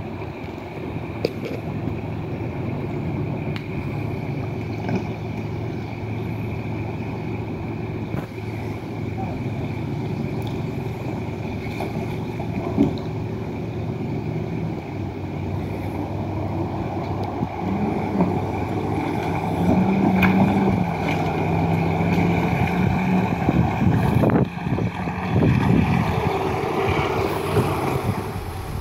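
Off-road 4x4's engine running steadily at low speed, its engine speed rising and falling several times in the second half. A sharp knock near the middle.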